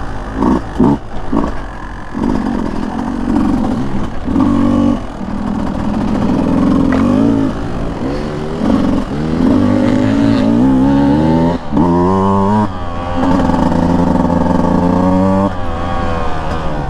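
Beta 200 two-stroke dirt bike engine being ridden, its revs climbing and dropping as the throttle opens and closes. There are short choppy blips in the first couple of seconds and several long rising pulls in the second half.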